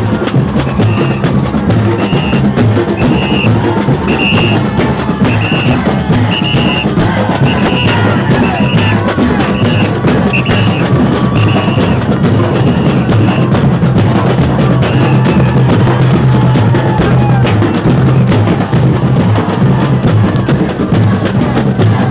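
A percussion group of drums, with deep bass drums, playing loudly and steadily. For roughly the first half, a short high-pitched note repeats about twice a second over the beat.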